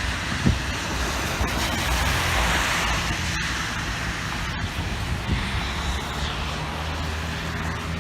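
Road traffic in a snowstorm: a car passing on the snowy street, its tyre hiss swelling and fading, over a steady low rumble of wind.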